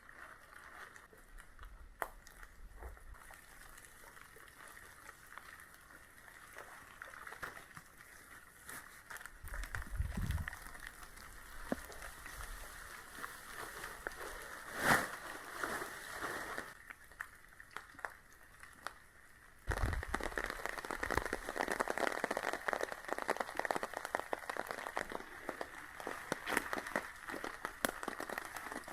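Heavy rain pattering on nylon fabric close to the microphone, a dense crackle of drops with a few dull bumps, turning abruptly louder about two-thirds of the way through.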